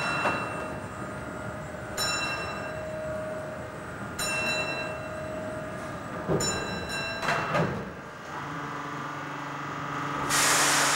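Railway sounds with a bell struck about every two seconds, each stroke ringing and dying away. A loud hiss starts near the end.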